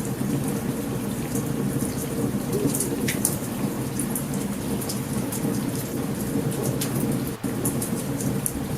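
Steady heavy rain with a continuous low rumble of thunder, and a campfire's sharp crackles and pops scattered throughout.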